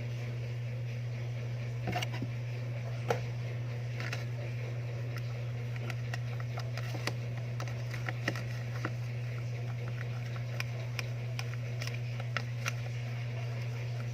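Scattered light clicks and taps of a spoon against a small plastic container as slime is mixed, over a steady low hum.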